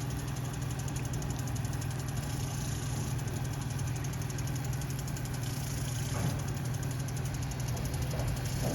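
A steady, even engine or motor hum, low-pitched with a fine regular pulsing, running without change.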